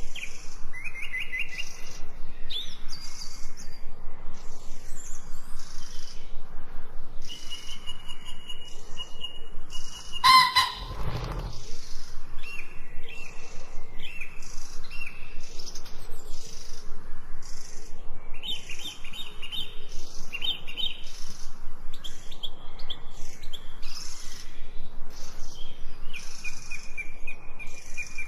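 Small birds chirping and whistling over a steady hiss, with one louder, fuller call about ten seconds in.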